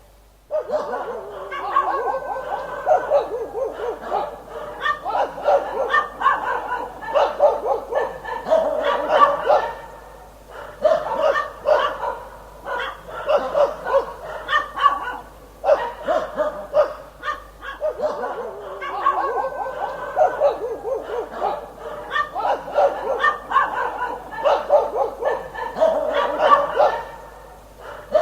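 Dog barking in quick, dense runs of several barks a second, broken by short pauses every few seconds.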